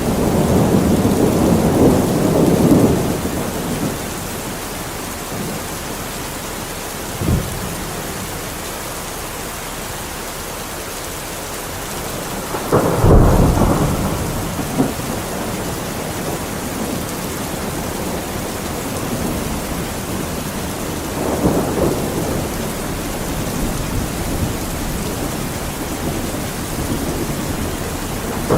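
Steady rain with rolling thunder. Low rumbles swell and fade in the first few seconds, a short sharp crack comes about seven seconds in, the loudest peal rolls in about halfway, and further rumbles come near the end.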